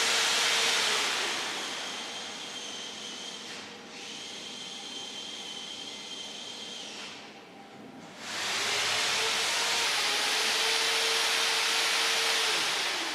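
An electric workshop machine running with a loud hiss; its motor winds down about a second in, leaving a quieter hiss, and spins back up to full speed about eight seconds in.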